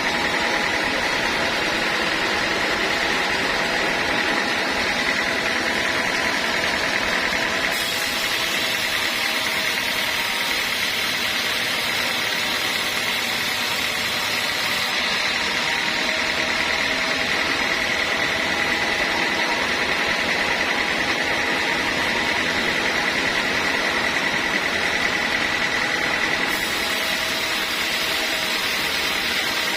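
Band sawmill running steadily through a teak log, with a constant high whine and hiss; the hiss brightens about a third of the way in, eases off around the middle and brightens again near the end.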